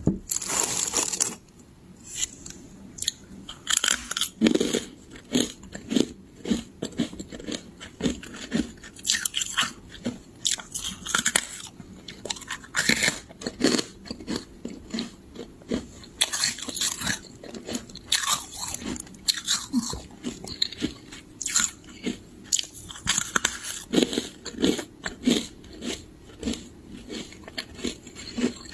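Freezer frost being bitten and chewed close to the microphone: a dense run of irregular, crisp crunches with a louder crackling burst about a second long at the start.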